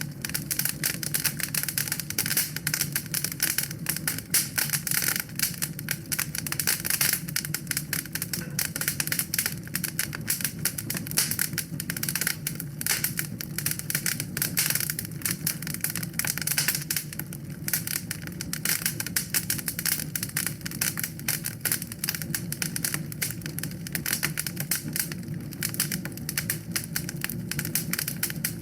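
Wood fire burning in a fireplace, crackling and popping continuously with dense, irregular snaps over a steady low rumble of the flames.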